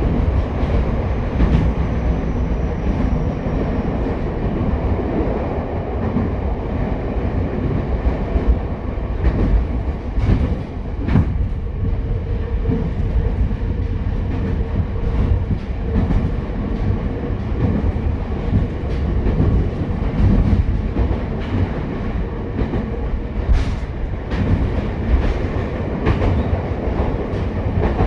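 Ichibata Electric Railway 7000 series electric railcar running, heard from inside the car: a steady low rumble of wheels on track, with scattered sharp clicks as the wheels pass over rail joints.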